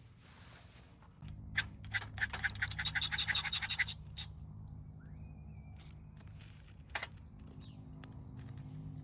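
Rapid, even scratching or scraping, about seven strokes a second for roughly two seconds, over a low steady hum, with a few scattered clicks before and after.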